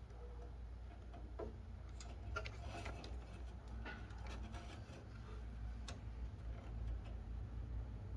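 Scattered, irregular light clicks and taps from hands working on vehicle wiring and small parts, over a steady low hum.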